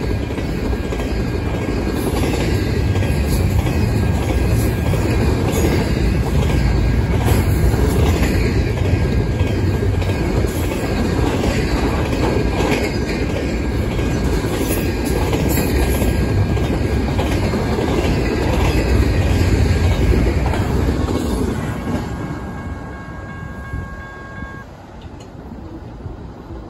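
Double-stack intermodal container cars of a freight train rolling past at speed: a heavy, steady rumble with a rhythmic clatter of wheels over the rail joints. About 21 seconds in the last car passes and the sound dies away.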